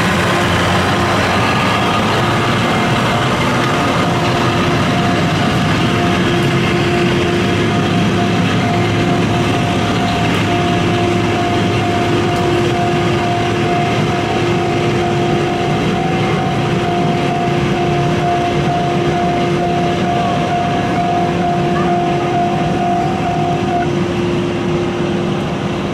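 Diesel-hauled train of 12-series coaches rolling slowly past at close range, its diesel engine running steadily with a humming tone over the rumble of the wheels on the rails. Part of the hum drops out a couple of seconds before the end.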